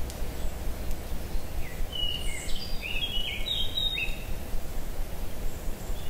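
A songbird sings one short phrase of quick, varied whistled notes about two seconds in, over a steady low rumble of wind.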